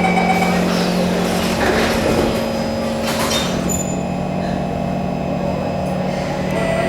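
Inside a stationary SMRT Kawasaki C151 metro train at a platform: the steady electrical hum of the train's onboard equipment, with faint voices and a brief clatter about three seconds in.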